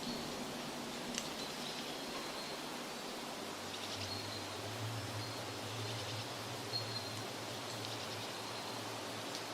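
Forest ambience: a steady wash of outdoor noise, like leaves rustling or distant running water, with faint, short bird chirps now and then. A faint low hum rises in about three seconds in and fades near the end.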